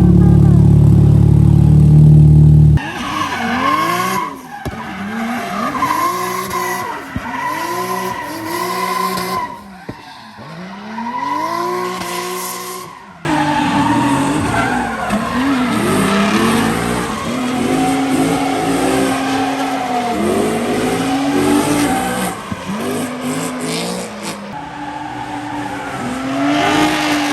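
Car engine revving up and falling back over and over, about once a second, with tyres squealing and skidding as the car drifts. It opens with a few seconds of loud low steady drone that cuts off abruptly.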